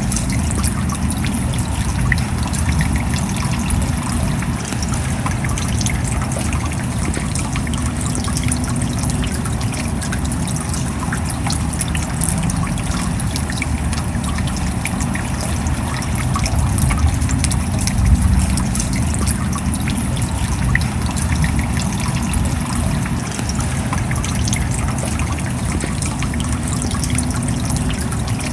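Steady rain falling: a dense, even patter of drops over a deeper rush of water, without a break.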